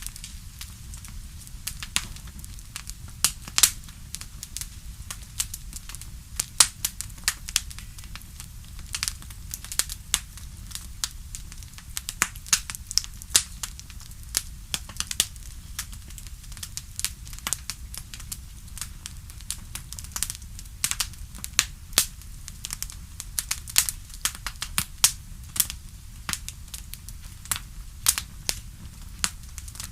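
Wood fire crackling, with many irregular sharp pops over a steady low rumble of the burning fire.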